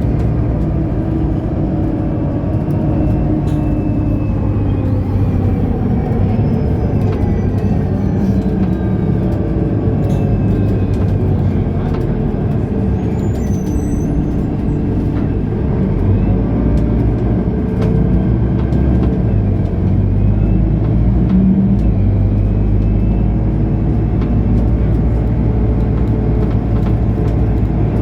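Mercedes-Benz O530 Citaro Facelift Ü city bus's diesel engine running while the bus drives, its pitch rising and falling several times as the bus speeds up, shifts and slows.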